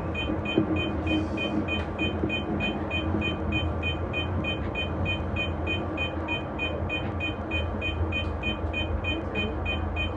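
Commuter train running through pointwork, heard from the driver's cab: a steady rumble and motor hum. Over it a short two-tone electronic beep repeats evenly, about three times a second.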